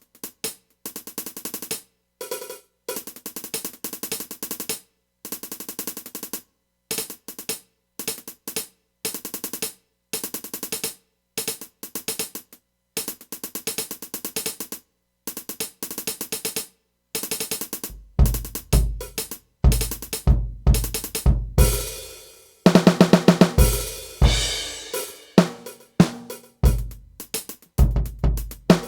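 Drum-led music: a drum kit with snare, hi-hat and cymbals playing in short rhythmic phrases broken by abrupt silences, with heavy bass-drum hits coming in about two-thirds of the way through.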